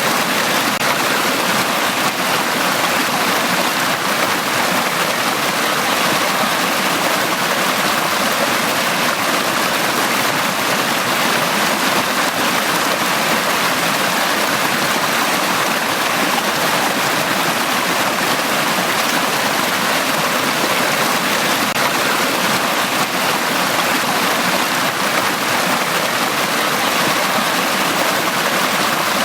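Mountain-valley stream flowing steadily: an even, unbroken rush of water over rocks.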